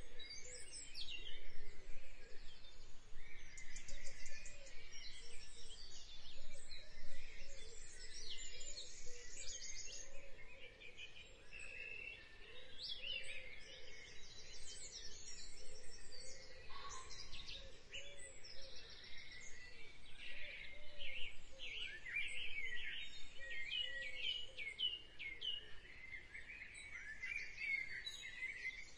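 Many birds chirping at once, a dense birdsong chorus of quick rising and falling calls, with a lower wavering call repeating underneath.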